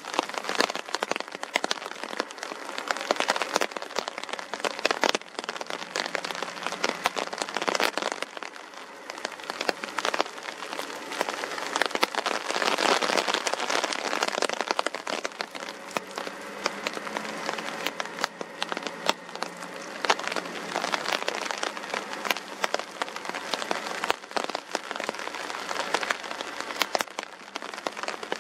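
Steady rain, with many individual drops ticking sharply on a surface close to the microphone, over a faint low hum.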